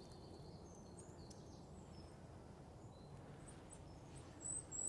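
Goldcrest giving very high, thin calls: a few faint short notes, then a louder high call near the end.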